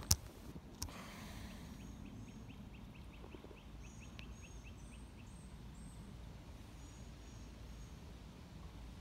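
A sharp click, then woodland birdsong: a bird repeats a quick run of short high notes, about four a second, for about three seconds, with fainter high chirps from other birds.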